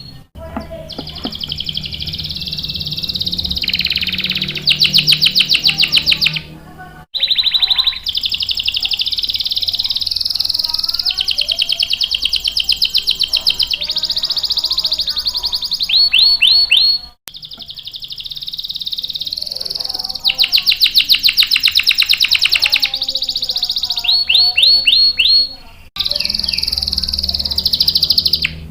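Domestic canary singing long songs of fast, high trills and rolling repeated notes, broken three times by brief sudden gaps.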